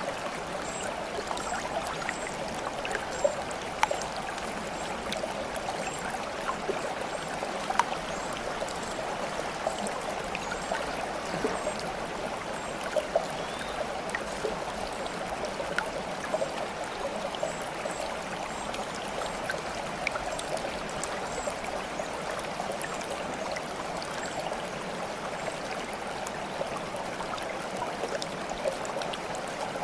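Stream water babbling and trickling steadily, with small splashing plinks scattered throughout.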